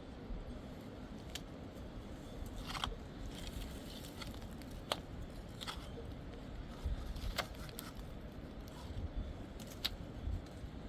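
Scattered light clicks and knocks, about a dozen at uneven intervals, over a steady low rumble.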